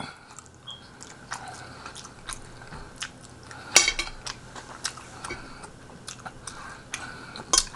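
A person chewing a mouthful of tenderloin steak: irregular wet chewing clicks and smacks, with one louder click about midway.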